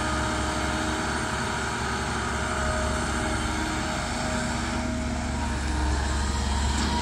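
Heavy diesel machinery at an earthworks site, an excavator and dump trucks, running steadily with a low engine hum and a faint shift in pitch partway through.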